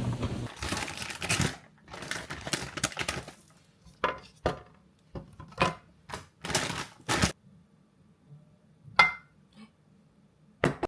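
Kitchen handling sounds: rustling and a run of knocks, then sharp clinks of tableware, one ringing briefly about nine seconds in.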